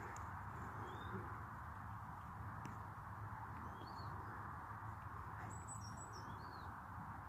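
A few short, high bird chirps, scattered and more frequent in the second half, over a steady outdoor background noise.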